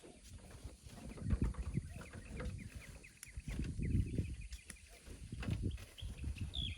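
Small birds chirping over irregular low thuds and scrapes.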